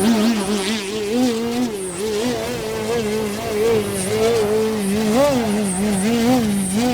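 Electric motor and propeller of a 60-inch Extra NG SkyWing 3D aerobatic RC plane running on take-off, its whine rising and falling in pitch with the throttle every second or so.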